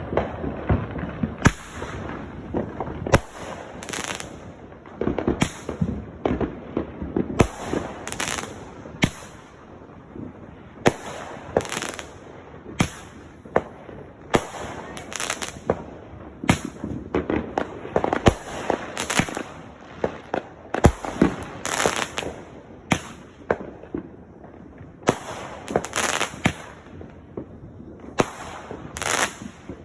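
Fireworks going off: a long string of sharp bangs at irregular intervals, often close together in twos and threes.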